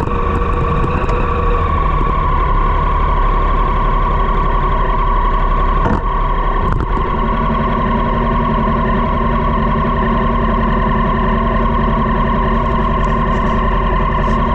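Triumph Street Triple's three-cylinder engine running steadily through a Dominator GP aftermarket exhaust. The note shifts slightly about seven seconds in, just after a brief click.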